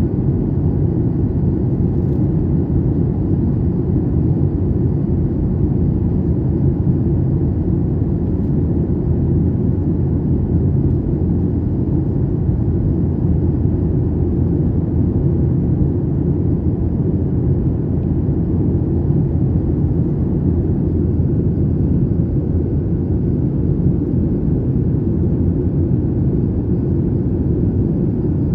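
Airliner cabin noise: a steady, loud low rumble of the jet engines and airflow heard from inside the passenger cabin, with a faint high whine over it.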